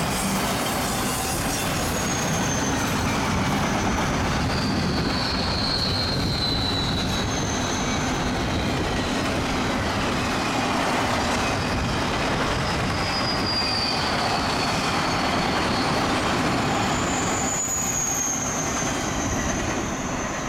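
Freight cars of a CSX intermodal train rolling past on a curve, with a steady rumble and wheel clatter, and high-pitched wheel-flange squeals coming and going. The sound eases slightly near the end as the last cars pass.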